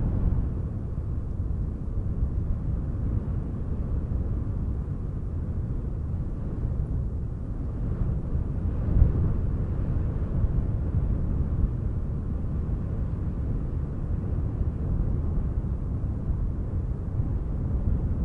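Wind buffeting the microphone outdoors: a low, gusting rumble that swells and eases, with a stronger gust about halfway through.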